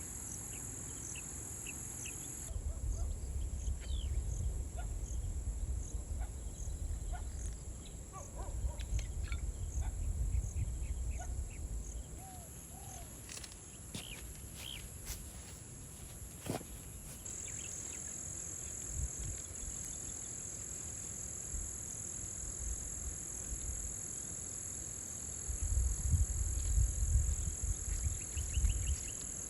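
Steady high-pitched drone of insects with scattered short bird chirps. Low rumbling gusts of wind buffet the microphone twice: for several seconds starting a couple of seconds in, and again near the end.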